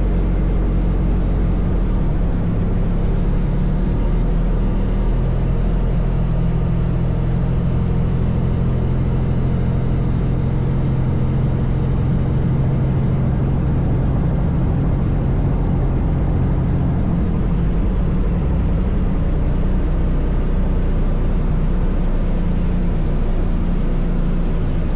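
Helicopter engine and rotor running, heard from inside the cabin: a loud, steady low drone whose pitch shifts slightly a couple of times.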